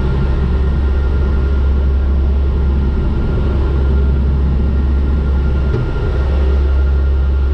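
Turboprop airliner's engines and propellers droning steadily in cruise flight, with a thin steady whine above the deep drone.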